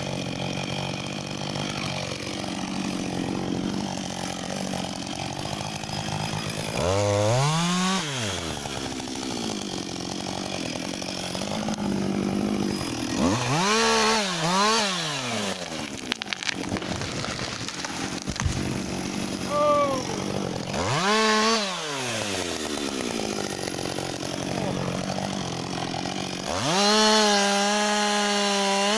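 Husqvarna 562 XP two-stroke chainsaw running at low speed, its engine revved up and back down in short bursts several times, then held at high revs near the end.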